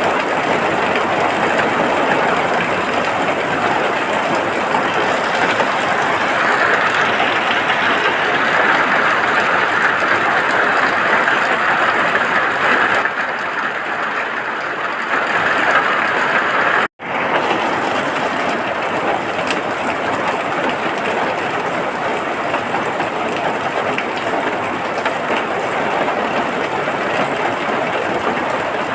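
Steady rain, a dense even hiss, that cuts out for an instant about seventeen seconds in and then carries on.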